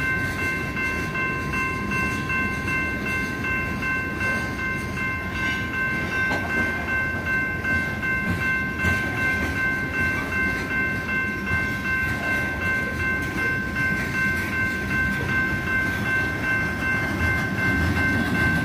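Loaded coal train's hopper cars rolling slowly past, a steady low rumble and rattle of wheels on rail. Over it, the grade crossing's warning bell rings without a break.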